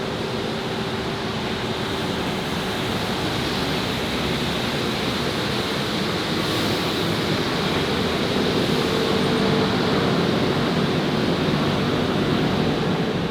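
Steady city traffic noise, passing vehicles and engine hum, swelling slightly about two-thirds of the way through.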